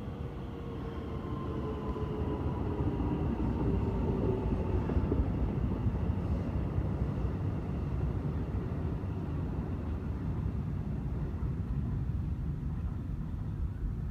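Keikyu electric train running with a steady low rumble, its motor whine falling slowly in pitch over the first several seconds as the train slows.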